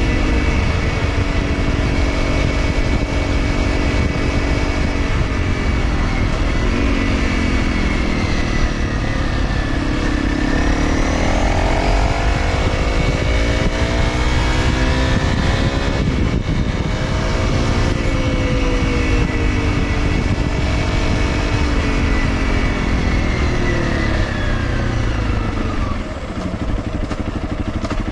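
Honda CRF250L single-cylinder four-stroke running through an aftermarket slip-on exhaust while riding, its revs rising and falling again and again as the throttle and gears change. Steady wind and road noise run underneath, and it quietens slightly near the end.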